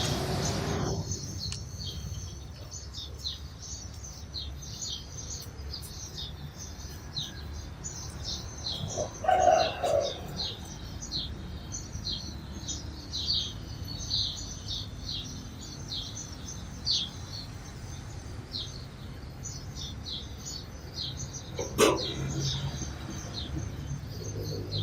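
A flock of sparrows chirping: many short, overlapping chirps without pause, over a low steady rumble. A brief louder sound comes about nine seconds in, and a sharp click about 22 seconds in.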